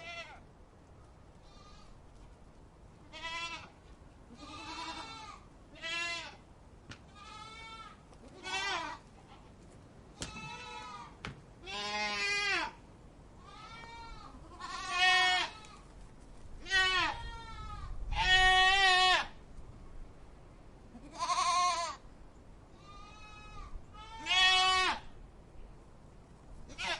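Goats bleating: a series of about twenty wavering calls, each a second or less, with short gaps between them. A longer, louder bleat comes about two thirds of the way in.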